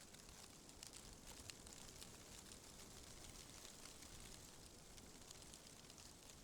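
Faint wind through tree leaves: a steady soft rustle with fine, scattered crackles.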